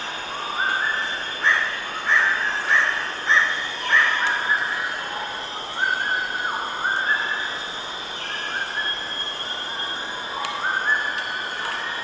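Birds calling: many short chirps rising in steps, densest in the first half, over a steady high-pitched ambient hiss.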